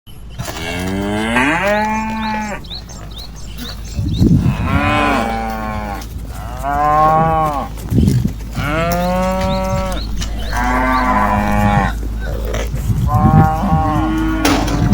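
Several cattle mooing one after another: about six long moos at different pitches, some overlapping, over a steady low rumble.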